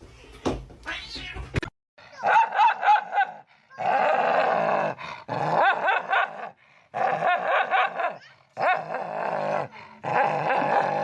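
A cat yowling: about six drawn-out, wavering calls in a row, each around a second long, starting about two seconds in.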